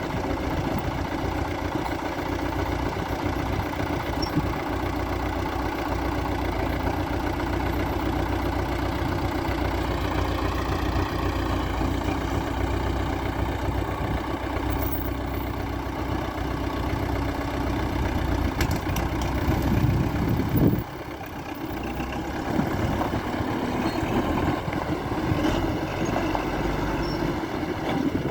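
MTZ-82 tractor's four-cylinder diesel engine running steadily. Its pitch rises slightly about a third of the way in, and it drops suddenly in loudness about two-thirds of the way through.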